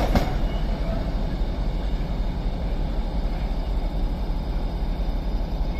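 Steady low rumble of a diesel train engine running at the platform, with a couple of clacks at the very start as a passing train's wheels clear.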